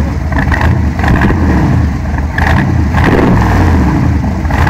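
Car engine revved repeatedly, its pitch rising and falling over a steady deep rumble.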